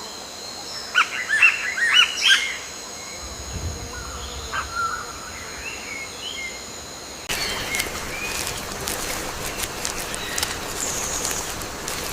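Bird calls: a quick run of sharp chirps about a second in, then softer scattered calls. About seven seconds in the background switches abruptly to a busier wild ambience with many small ticks and higher calls.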